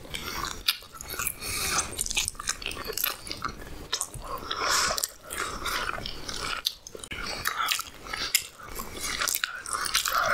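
A person chewing and biting food, a halwa puri breakfast, with many irregular mouth clicks and smacks.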